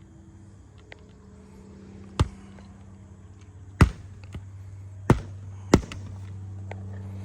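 Four sharp knocks from roofing tool work on asphalt shingles, unevenly spaced, over a low steady hum.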